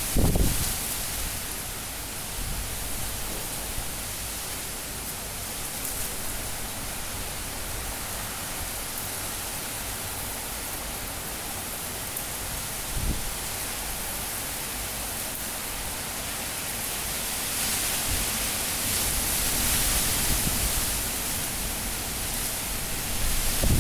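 Cyclone-force wind blowing hard, a steady rush of noise that swells in gusts just after the start, again about three-quarters of the way through, and near the end.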